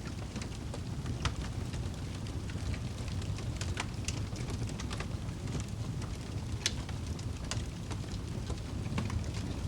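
Fire burning in a fireplace: a steady low rumble with irregular crackles and pops, one sharper pop about two-thirds of the way through.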